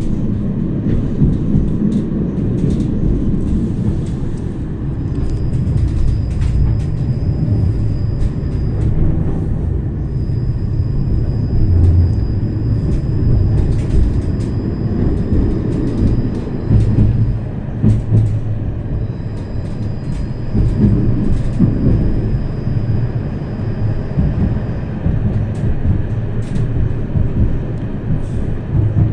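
Tram running along its track: a steady rumble with scattered clicks and knocks from the wheels and rails. A thin, high whine sounds three times, several seconds each.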